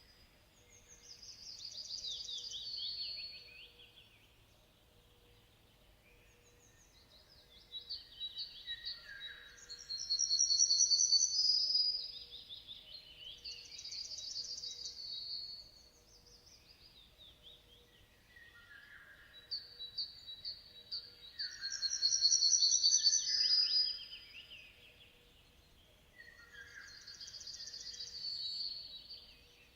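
A songbird singing: several high, rapid trilled phrases, each a couple of seconds long, with short pauses between them.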